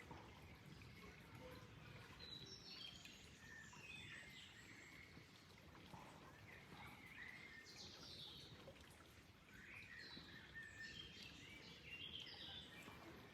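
Faint birdsong, many short chirps and whistles, some sliding in pitch, over a low steady wash of flowing water.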